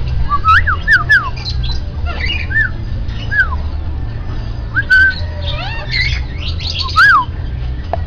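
Caged birds calling, among them a Bali myna: a series of short whistled notes that rise and fall in pitch, three in quick succession about half a second in and more spaced out after, with higher chirps mixed in and a steady low rumble underneath.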